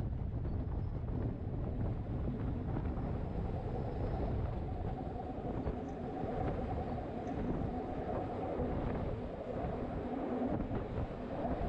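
Rhaetian Railway electric train running on the Bernina line, heard from an open carriage window: a steady rumble of wheels on the rails, mixed with wind noise on the microphone.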